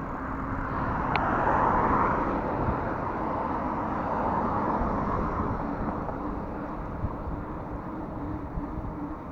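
Road traffic heard from a moving bicycle: a steady rush of passing cars, swelling about a second in and easing off over the next few seconds, mixed with wind and rolling noise.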